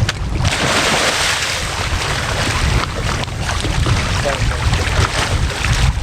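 Wind buffeting the microphone, with a rush of water noise that is loudest in the first few seconds.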